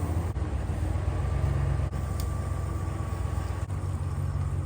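Bobcat E32 mini excavator's diesel engine running steadily with a deep, even drone.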